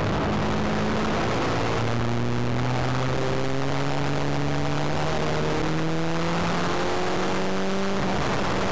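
Ford Fiesta Mk3 XR2i's 1.8 16-valve four-cylinder engine, heard from inside the cabin, pulling under acceleration in one gear. Its pitch rises steadily over several seconds.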